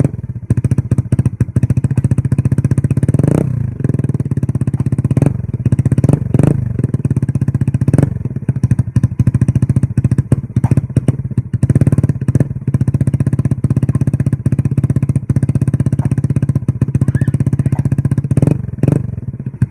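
Yamaha Mio Sporty scooter's single-cylinder four-stroke engine idling through an aftermarket Vmax screen-type muffler, with a few brief throttle blips.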